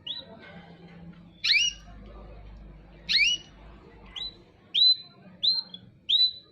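Pet birds chirping: about seven short, sharp, rising calls, coming closer together in the second half.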